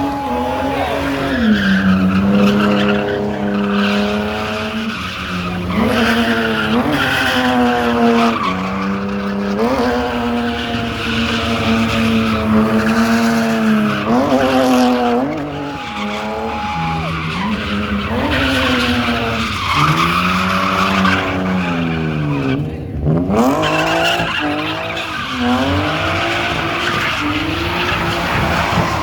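Car engines revving up and down over and over, the pitch rising and falling every second or two.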